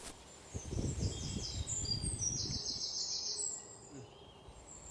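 Small birds chirping in short repeated calls, with a quick trill about two and a half seconds in. Under them is low, irregular rustling and handling noise for the first three seconds or so.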